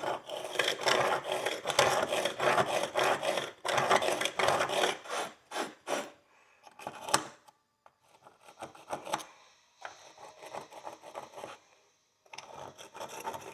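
A pick scraping along the groove of an old pony horseshoe, a run-through to check whether it still catches on dirt left inside. Fast, dense scraping strokes for about five seconds, then lighter, sparser scratches, a brief pause near the end, and the scraping starts again.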